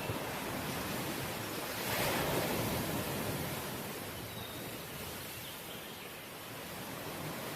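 Sea waves: a steady wash of surf that swells as a wave breaks about two seconds in, then ebbs away.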